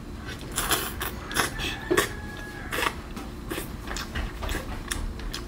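Mouth sounds of eating sea snail meat: sucking it out of the shell and chewing, heard as an irregular string of short clicks and smacks, several a second.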